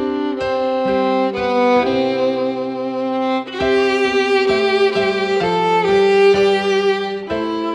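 Instrumental music: a violin playing a slow melody in held notes over a lower string accompaniment.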